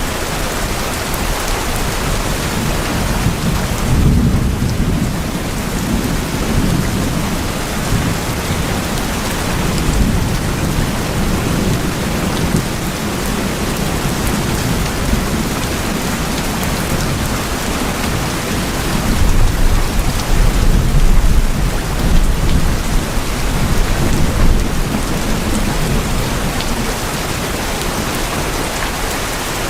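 Steady heavy rain falling on tin roofs, with low rolls of thunder about four seconds in and again from about nineteen to twenty-five seconds.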